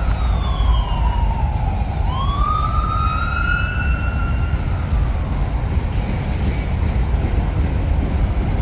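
A freight train rolls slowly over a bridge with a steady low rumble. In the first five seconds a high wailing tone slides down, swoops back up, holds briefly and fades.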